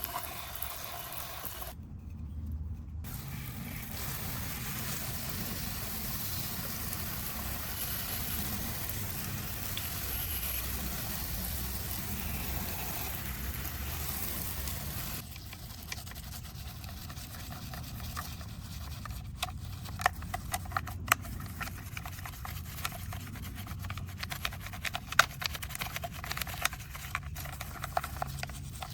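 Water spraying or running with a steady hiss for about fifteen seconds, then many scattered light clicks and taps.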